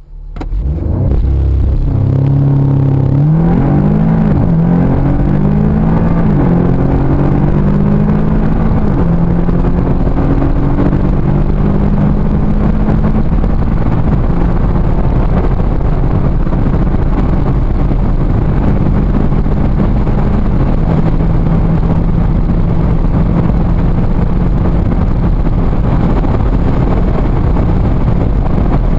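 Audi S3's 2.0 TFSI turbocharged four-cylinder at full throttle, its note climbing and dropping back with several quick upshifts in the first seconds. It then rises slowly in a high gear as wind and road noise build to a steady rush at high speed.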